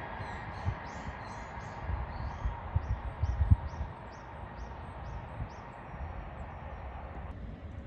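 A small bird calls in a regular series of short, high chirps, about three a second, with pauses between runs. Wind buffets the microphone with low thumps, over a steady rushing background that drops away near the end.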